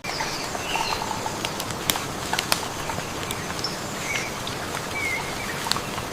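Natural outdoor ambience: a steady hiss with many scattered sharp ticks, and birds giving short chirps now and then.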